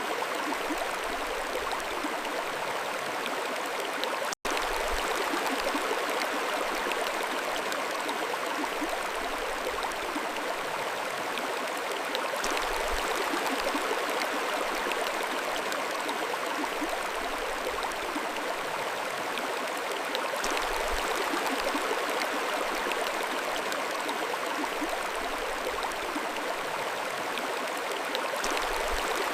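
Mountain stream flowing steadily, with a momentary cut to silence about four seconds in.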